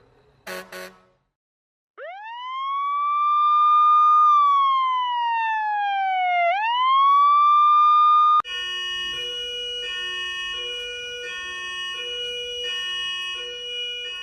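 Emergency-vehicle sirens, cut one after another. First comes an electronic wail siren that sweeps up quickly, glides slowly down and climbs again. It is cut off abruptly by a hi-lo two-tone siren alternating between two pitches, each held a little over half a second. Two short blips come just before the wail begins.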